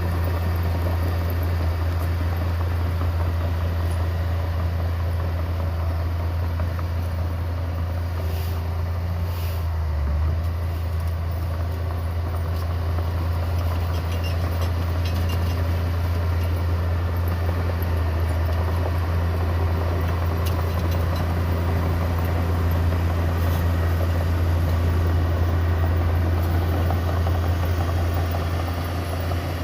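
Heavy diesel earthmoving machinery running steadily at a constant engine speed, with a deep, even engine hum.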